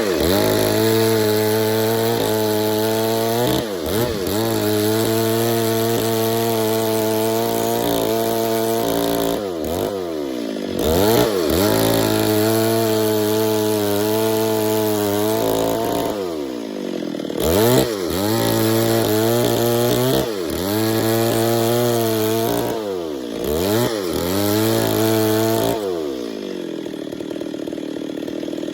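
Stihl MS 382 chainsaw's two-stroke engine running at high revs in several long bouts, as in cutting wood, dropping back briefly between them. It falls back to idle near the end.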